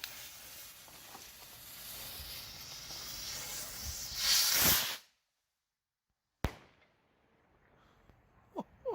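Screamin Eagle firework rocket hissing as it burns, the hiss growing louder for about four seconds to a loud rush of launch, then cutting off abruptly. A single sharp crack comes about six and a half seconds in.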